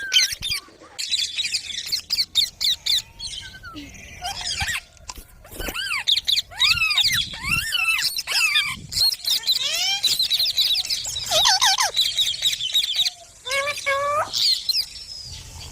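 Indian ringneck parrots chirping and squealing in a rapid run of short, arched calls, with a few brief pauses.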